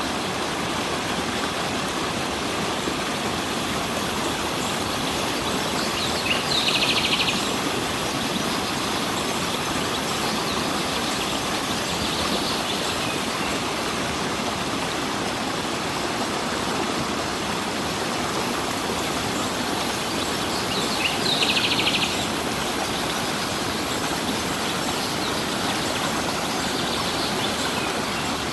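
Stream water rushing steadily, with a bird giving a short rapid trill twice, a quarter and three quarters of the way through, and fainter similar calls in between.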